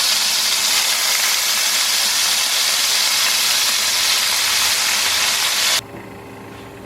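Marinated chicken pieces frying in hot oil in a pan: a loud, steady sizzle that cuts off suddenly near the end.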